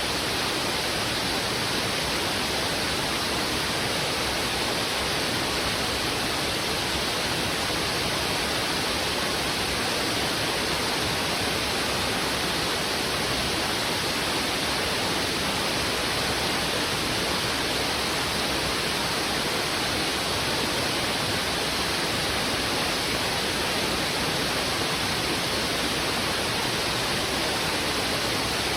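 Heavy river water rushing over rocks: a steady, unbroken rush of flowing water that keeps the same level throughout.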